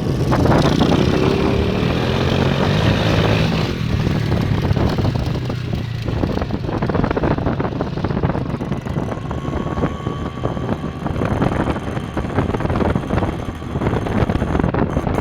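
Small motorcycle engine running under way, its pitch rising in the first couple of seconds as it revs up, with wind buffeting the microphone.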